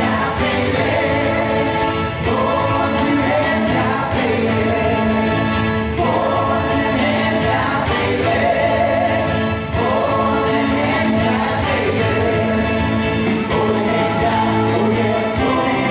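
Choir singing long held phrases over orchestral music, each phrase about two seconds long, in the show's opening number.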